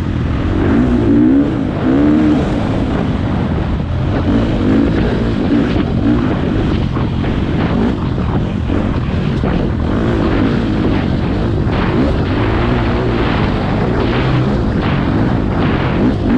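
Four-stroke dirt bike engine revving up and down repeatedly as it is ridden along a trail.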